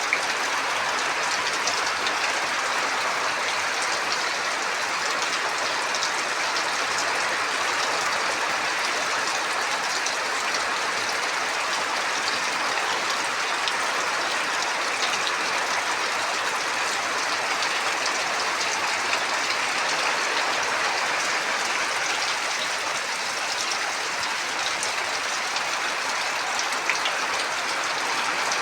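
Heavy rain falling steadily, a constant hiss of downpour with many small drop ticks.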